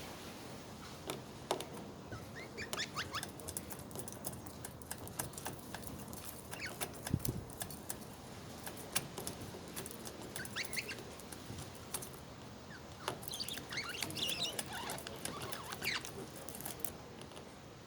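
Budgerigars chirping and chattering softly in short, scattered calls, mixed with scattered light clicks.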